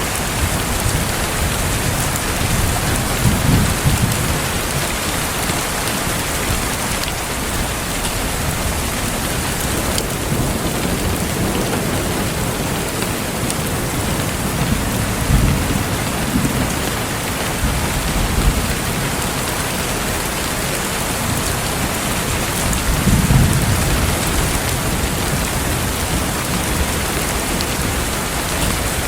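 Steady rain falling, with low rumbles of thunder swelling up three times, and a few faint crackles from a wood fire.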